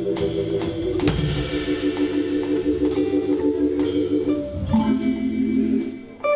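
Live soul-jazz organ trio playing: Hammond B3 organ holding pulsing chords over a drum kit, with electric guitar notes on top. The band drops away briefly near the end before coming back in on a new chord.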